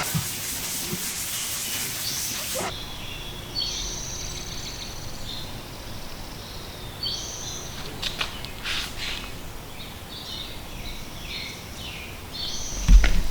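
A steady hiss that cuts off suddenly about two and a half seconds in, then birds chirping and calling over and over, with a low thump near the end.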